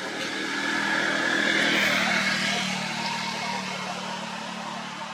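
A motor vehicle passing by: a steady engine hum with noise that swells to a peak about two seconds in and then fades away.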